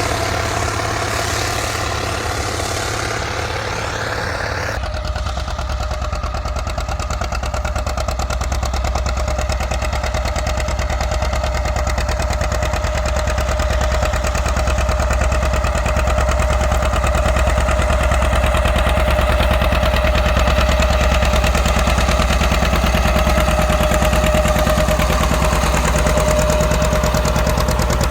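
Tractor engine running steadily under load, with a steady hum over a deep rumble. The sound changes abruptly about five seconds in, where a different engine takes over.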